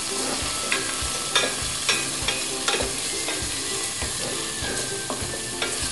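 Onion and spice masala sizzling in oil in a frying pan on high flame while being stirred, with a spatula scrape or knock against the pan every half second or so.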